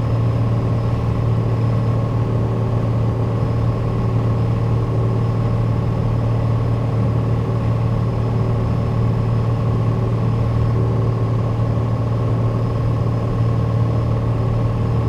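Cabin drone of a Piper Dakota in cruise: its six-cylinder Lycoming engine and propeller run steadily at cruise power, about 23 inches of manifold pressure and 2,300 RPM, with a strong low hum that holds an even pitch throughout.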